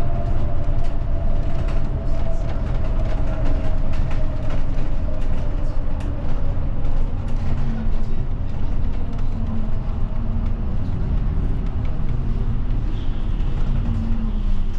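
Route bus on the move, heard from inside the cabin: a steady low drone of engine and road rumble, with a whine that falls slightly in pitch over the first few seconds and light rattles and clicks from the cabin.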